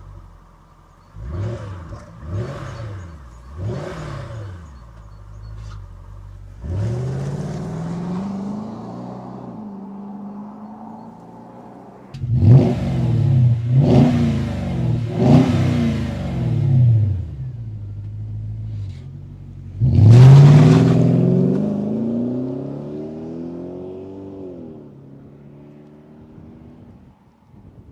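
Jaguar XK8's V8 revved through its exhaust: three quick throttle blips, a longer rev, four more quick blips, then a hard rev about twenty seconds in that falls back slowly to idle.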